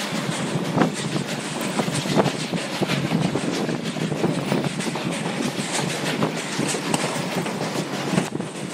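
Narrow-gauge passenger train rolling along with a steady rumble, its wheels clicking irregularly over the rail joints.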